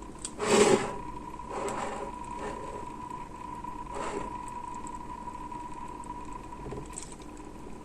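Small electric pump of a Deepcool Gammaxx L120T liquid CPU cooler running with a steady high whine. Handling knocks and scrapes come over it, the loudest under a second in and weaker ones around two and four seconds in.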